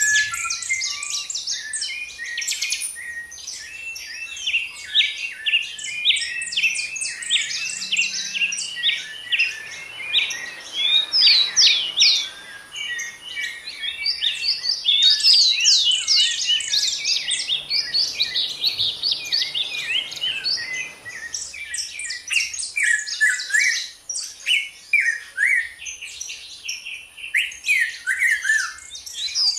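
A dense chorus of several songbirds chirping and singing at once, rapid overlapping tweets and quick sweeping whistles. A faint rushing hiss lies under it for a stretch in the middle.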